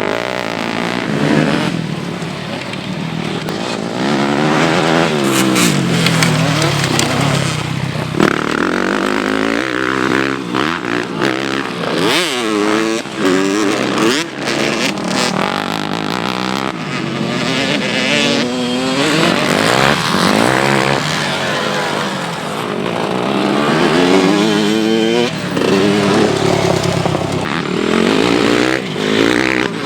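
Several motocross bikes racing, their engines revving up and falling back as they accelerate and brake, often overlapping one another.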